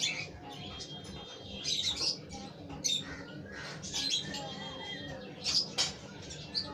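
Lutino lovebird chick making short, high begging chirps about once a second while being hand-fed formula from a syringe.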